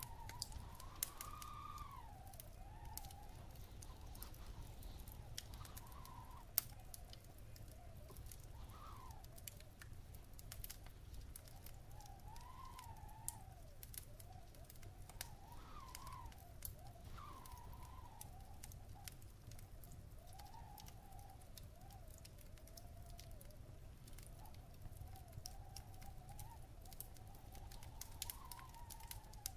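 Wood fire crackling in a fireplace, with scattered small pops and one sharper pop about six seconds in. Behind it, a faint whistling tone wavers and swells up and down in pitch.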